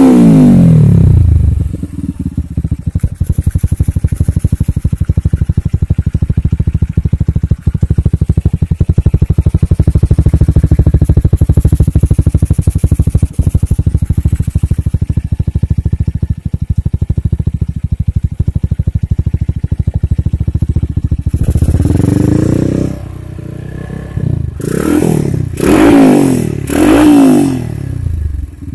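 Motorcycle engine running through a hollowed-out stock Yamaha Scorpio muffler with an R Speed header pipe. The revs fall back to a steady, rapidly pulsing idle just after the start, and near the end the throttle is blipped several times, each rev rising and falling.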